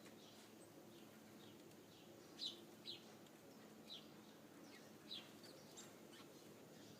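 Small birds calling with short, high, downward chirps, a few spaced about a second apart, over a faint steady hum.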